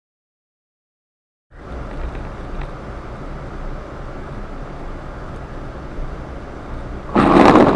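Car driving on a snowy road, heard from inside: steady road and wind noise. The sound drops out completely for about the first second and a half, and a loud rush of noise lasting about half a second comes near the end.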